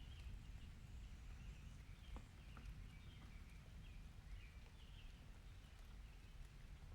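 Faint, steady low wind rumble with soft high-pitched squeaks recurring irregularly about once or twice a second.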